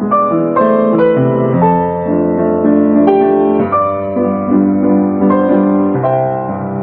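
Background piano music: a slow, gentle melody of sustained notes and chords.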